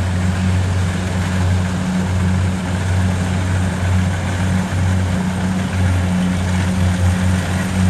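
Kubota DC70 Pro combine harvester's diesel engine running steadily, a constant low drone with a broad mechanical rush over it.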